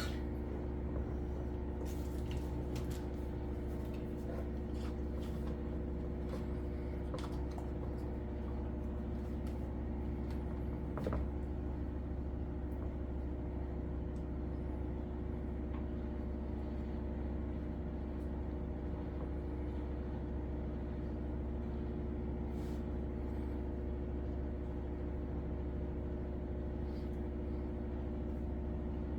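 Steady electric motor hum, with a few faint clicks and a light knock about eleven seconds in.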